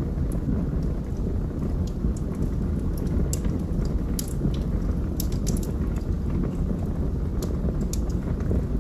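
Wood fire in a fireplace burning, with a steady low rumble of flames and irregular sharp crackles and pops from the burning logs.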